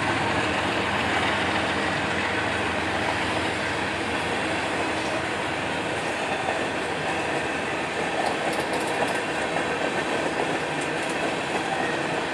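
Freight train's tank cars rolling across a river bridge: a steady rumble of steel wheels on rail.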